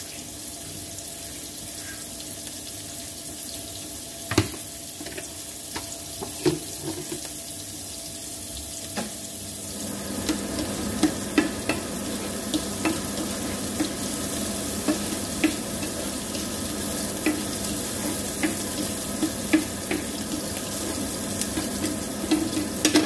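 Diced onion sizzling in hot oil in a nonstick frying pan, a steady hiss. Two sharp knocks come in the first seven seconds. About ten seconds in, the sizzle grows louder and a spatula scrapes and taps the pan as the onion is stirred.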